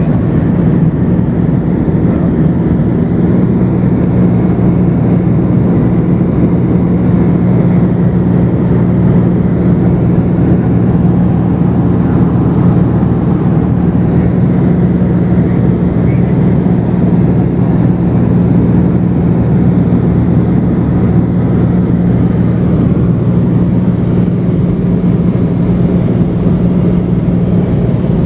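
Cessna 210's piston engine and propeller in steady cruise, a loud unbroken drone with a strong low hum.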